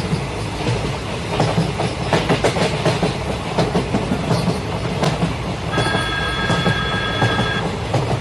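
Train running on the track, its wheels clacking over the rail joints with a steady rumble. A steady high-pitched tone sounds over it for about two seconds near the end.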